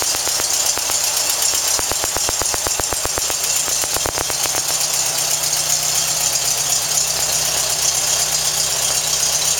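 A 1914cc air-cooled VW flat-four buggy engine with dual carburettors idling steadily on an engine stand, its exhaust beating out an even, rapid train of pulses.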